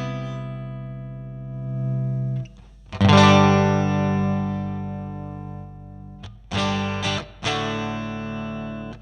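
Electric guitar, a Fender Stratocaster, played through a Line 6 Helix amp-and-cab model with some distortion. Chords are strummed and left to ring out: a loud chord about three seconds in rings for several seconds, then shorter strums follow near the end.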